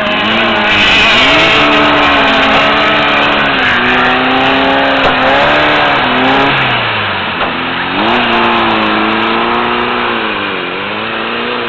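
Off-road race car engine running hard, its pitch rising and falling as it revs and shifts. The revs drop away about seven seconds in, then climb again, with a brief dip near the end.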